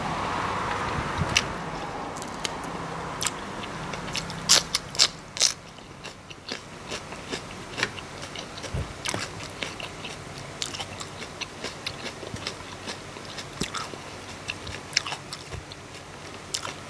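A person chewing a mouthful of food close to the microphone: irregular wet clicks and crunches, loudest in a quick cluster about five seconds in.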